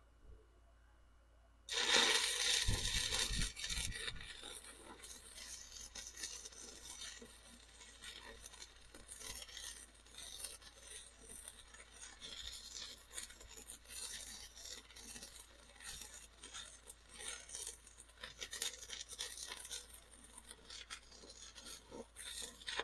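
Stick welding arc crackling as an electrode burns into a bead. The arc strikes about two seconds in, is loudest just after striking, and cuts off abruptly at the end.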